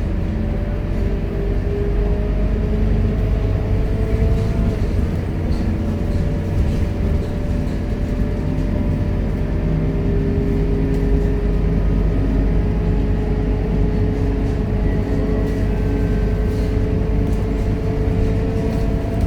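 Scania K230UB Euro V city bus under way: a steady low engine and drivetrain rumble, with a whining note that slowly rises in pitch over most of the stretch.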